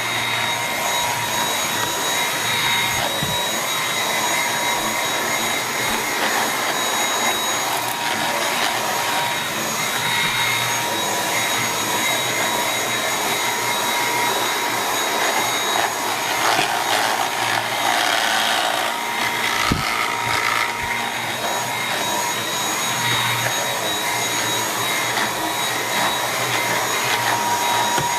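Dyson V8 cordless stick vacuum running with its mini motorised brush head, a steady high motor whine over the rush of suction, with a few sharp knocks. The brush roll rattles in its housing when the head is pressed onto stair edges; the owner finds it does no harm to performance.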